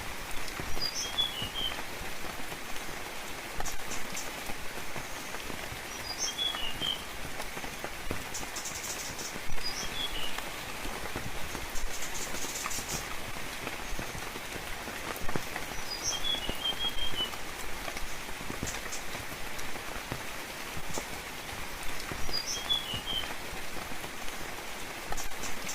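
Steady rain falling on leaves and ground, with individual drops ticking, while a bird repeats a short high chirping phrase about five times, every few seconds.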